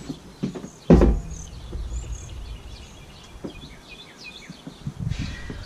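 Small birds chirping throughout. About a second in comes a single loud thump, and near the end a brief rustle.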